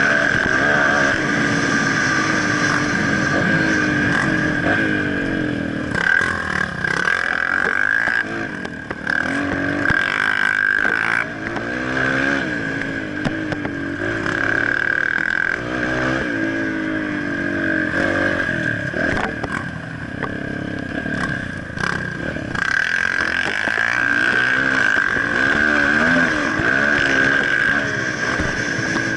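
Motocross bike engine revving up and down over and over, the pitch climbing and dropping every second or two as the throttle is worked, with a steady high whine running underneath.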